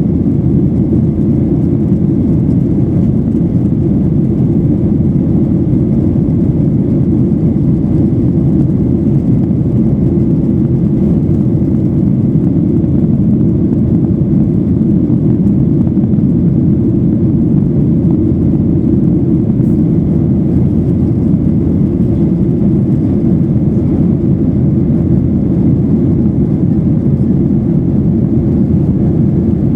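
Steady cabin noise of a Boeing 737-800 in flight: a loud, even low rumble of its CFM56 turbofans and the airflow past the fuselage, heard from a passenger seat.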